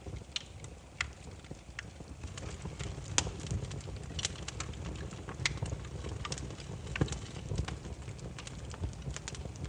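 Firewood burning and crackling: irregular sharp pops and snaps, several a second at times, over a steady low rumble of the flames.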